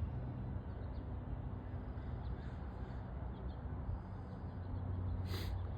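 Pond-side ambience: a steady low outdoor rumble with faint, scattered bird calls, and one brief sharp click about five and a half seconds in.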